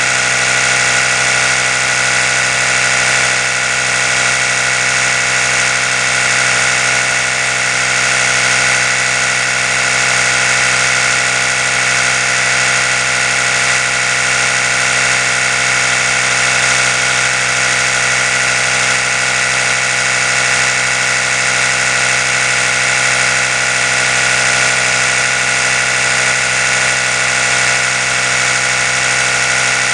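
Oral-B electric toothbrush running continuously, a steady, unchanging buzz.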